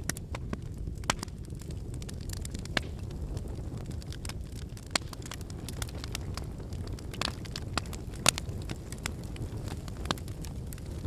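Wood campfire burning: irregular sharp crackles and pops from the burning firewood over a steady low rumble, with a few louder pops scattered through.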